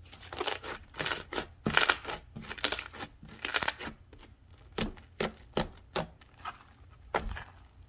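Slime being squished and poked by hand, making a quick run of crackling, popping sounds for the first few seconds, then a few separate sharper pops.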